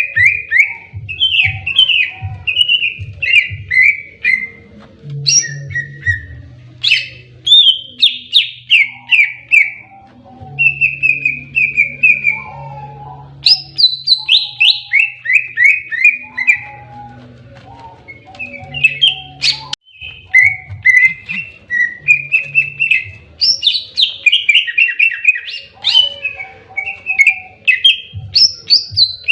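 Greater green leafbird (cucak ijo) singing its aggressive 'fighting' song: fast, loud runs of sharp notes that slide downward, phrase after phrase, with only short pauses between them.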